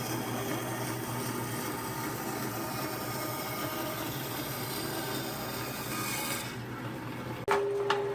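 Steady workshop noise of wood being worked with a tool, changing abruptly near the end with a sharp loud onset and a steady hum.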